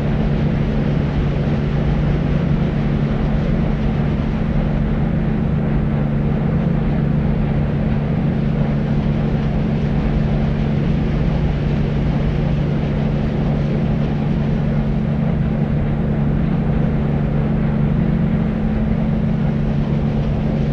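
Steady deep white noise for sleep: an even rushing hiss weighted toward the low end, with a constant low hum under it, unchanging throughout.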